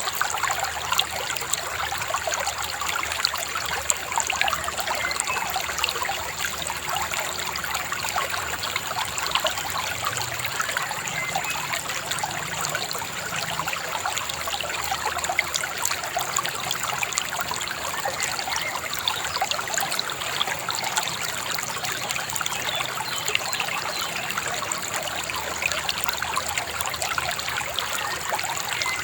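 Shallow river babbling and trickling steadily, an even, unbroken rush of running water.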